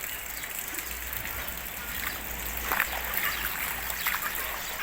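Heavy rain falling and floodwater running across a flooded street, an even hiss with a few short, sharp sounds in the second half.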